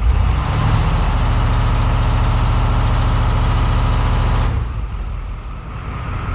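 Old diesel truck engine running steadily and evenly, heard close to its exhaust and cold-started. About four and a half seconds in, the sound drops sharply to a quieter level.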